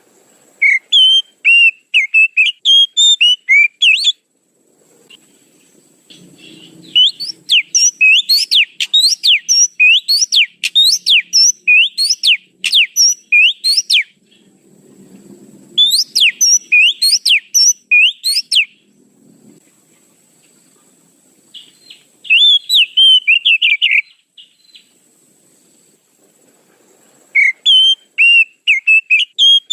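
Oriental magpie-robin (kacer) song used as a lure call: loud phrases of fast, sharp whistled notes sweeping up and down, five phrases of a few seconds each with short pauses between them.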